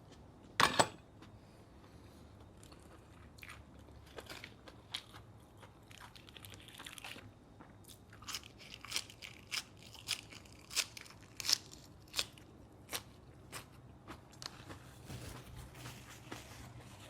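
Close-miked mouth sounds of chewing and biting a spicy grilled pork neck salad with rice: short crisp crunches and wet clicks, coming about one to two a second in the second half. A louder sharp click comes under a second in.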